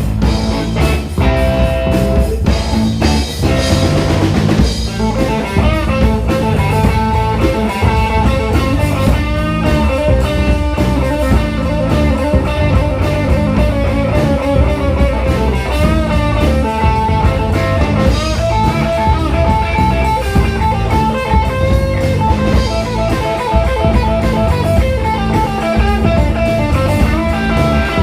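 Live rock band playing an instrumental passage, with electric guitar lines over drum kit and a heavy low end.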